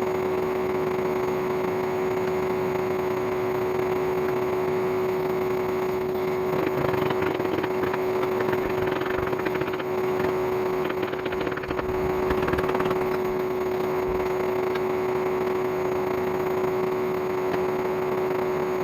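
An old vacuum cleaner motor running steadily as the air blower for a homemade coal forge: a constant hum with one steady tone over a rushing noise. Scattered clicks and rustling come and go in the middle.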